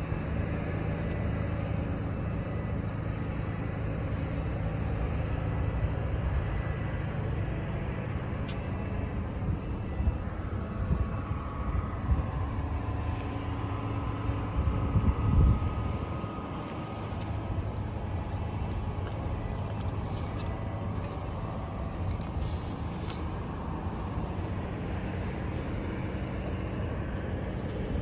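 A steady low engine hum with scattered light clicks, and a louder knock about halfway through.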